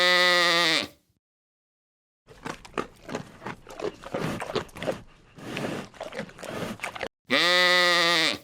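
Farm animal calls: a loud, drawn-out pitched call about a second long, then several seconds of irregular grunting, then the same long call again near the end.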